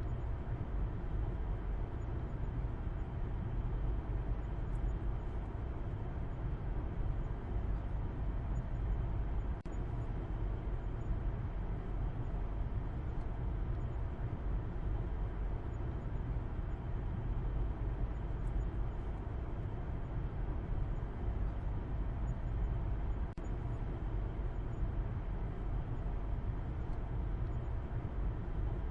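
Steady low rumble of a car driving, with road and engine noise holding an even level throughout. Two faint ticks come through, about 10 and 23 seconds in.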